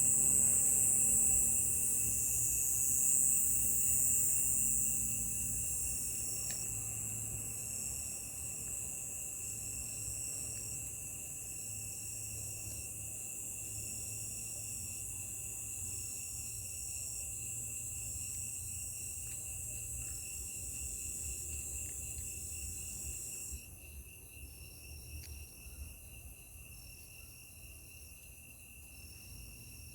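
Insects calling in chorus: a loud high buzzing that cuts off suddenly about 23 seconds in, a steady high trill throughout, and a short high chirp repeating about once a second.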